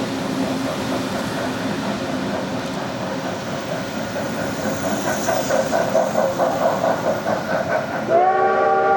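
Steam locomotive running with a rhythmic beat that grows louder about halfway through. Near the end its steam whistle sounds, a sustained chord of several notes held steady.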